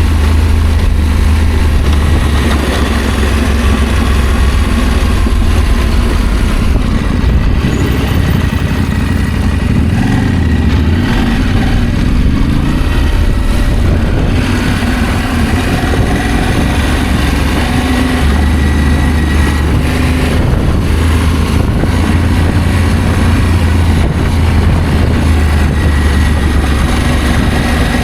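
Adventure motorcycle engine running while riding, steady and loud, its pitch dipping and rising again about ten to thirteen seconds in.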